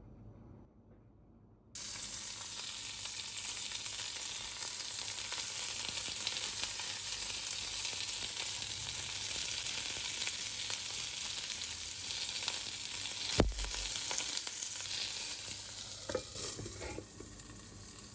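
Food sizzling as it fries in hot oil in a pan, starting suddenly about two seconds in and holding steady. One sharp knock about two-thirds of the way through, and a few short scrapes near the end.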